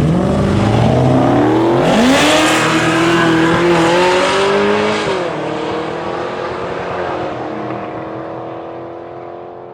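Drag race car making a pass down the strip. The engine pitch climbs, drops at a gear change about two seconds in, climbs again and drops at another shift about five seconds in, then holds steady as the car fades into the distance.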